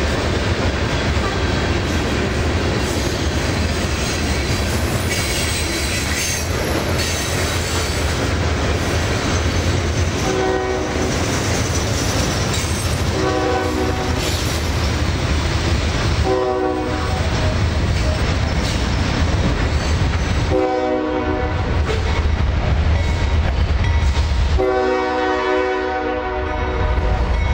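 Freight train rumbling past with its wheels on the rails. The locomotive horn sounds five blasts in the second half, the last one the longest.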